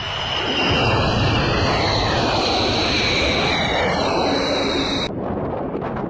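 B-1B Lancer's jet engines running at high power: a loud, steady roar with high whines that slowly shift in pitch. About five seconds in the sound cuts abruptly to a duller, wind-buffeted rumble.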